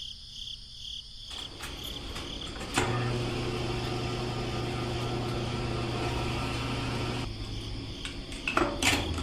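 A small electric motor whirring steadily, starting with a click about three seconds in and stopping about seven seconds in.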